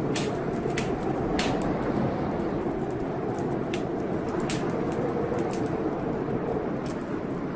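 Wood fire in a fireplace crackling, with sharp pops every second or so over a steady rushing noise.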